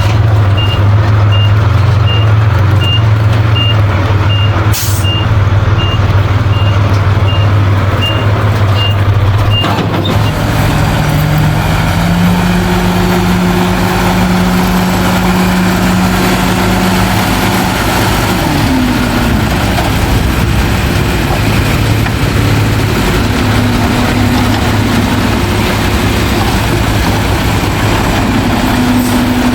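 Heavy diesel earthmoving machine running, with a reversing alarm beeping at a steady rate that stops about ten seconds in. A short hiss comes about five seconds in. After the beeping stops, the engine pitch rises, holds steady for several seconds, and drops again.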